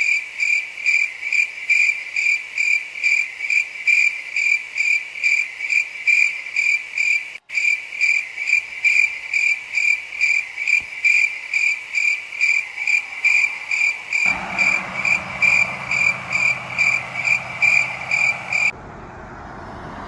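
Loud high-pitched electronic alarm beeping, about two to three beeps a second and steady. About fourteen seconds in, a low engine-like hum joins under it, and the beeping stops shortly before the end.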